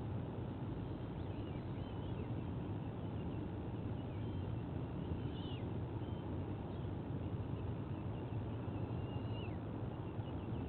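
Faint, high bird chirps every few seconds over a steady low background rumble.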